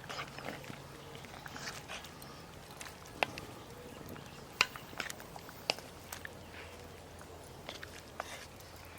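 Wood fire crackling: scattered sharp pops and snaps over a low steady background, with three louder pops around the middle.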